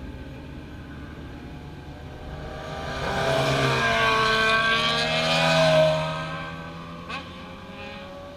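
Motorcycle engine that swells in loudness about three seconds in, peaks, and fades away again, as a bike accelerates past, over a steady lower engine hum; a short click near the end.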